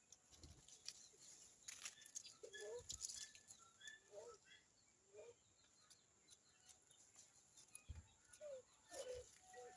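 Birds at a feeding tray: scattered wing flutters and sharp taps, with about five short low calls, each a quick rise and fall in pitch, and a few faint higher chirps.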